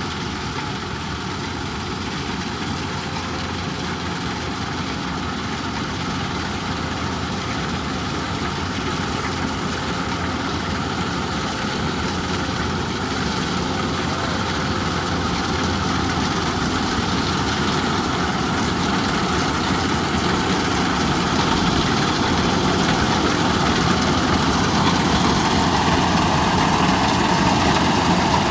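Kubota DC108X combine harvester running steadily as it harvests, a continuous engine and machinery noise that grows gradually louder.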